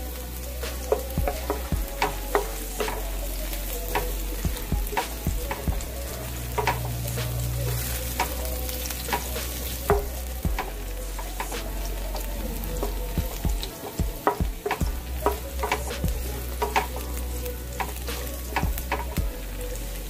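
Chopped garlic sizzling in oil in a nonstick frying pan, stirred with a wooden spatula that scrapes and taps against the pan in short, irregular clicks.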